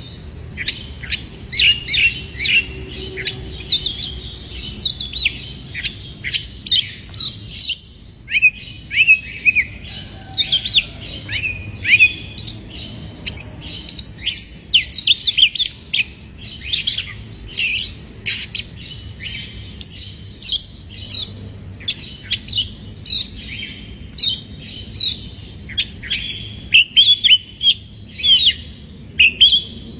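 Oriental magpie-robin (kacer) singing a fast, varied run of short chirps and sliding whistles, several notes a second. The song breaks off briefly about eight seconds in, over a faint steady low hum.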